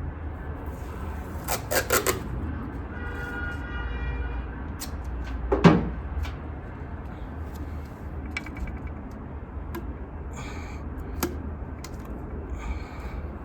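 Hand work on an engine bay: scattered clicks and knocks of tools and parts being handled, with a short squeaky scrape about three seconds in and a sharp knock near six seconds, over a steady low rumble.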